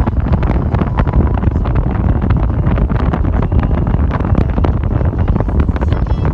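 Wind buffeting the microphone: a loud, steady low rumble broken by rapid crackles.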